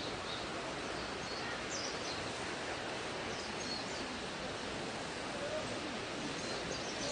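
Small birds chirping now and then over a steady rushing outdoor background noise.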